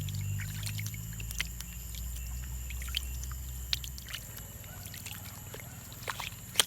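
Jungle insects droning steadily at a high pitch, with scattered small clicks and taps throughout and one sharper click near the end. A low rumble runs underneath and fades out about two-thirds of the way through.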